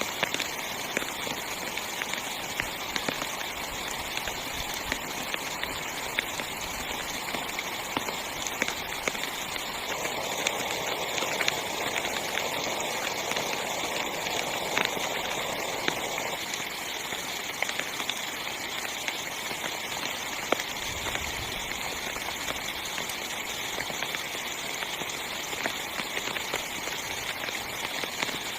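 Heavy rain falling on a small tent, a steady hiss with individual drops ticking sharply on the fabric. The rain swells heavier for several seconds in the middle, then eases back.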